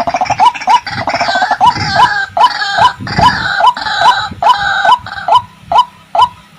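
White-breasted waterhen calling: a short rising 'ruak' note repeated about two to three times a second, with a busier stretch of overlapping harsher, higher calls from about a second in until near the end.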